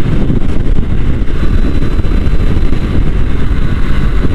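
Triumph Street Triple 765 R being ridden on the road: a steady, loud rush of wind and engine noise, heaviest in the low end, with no change in pace.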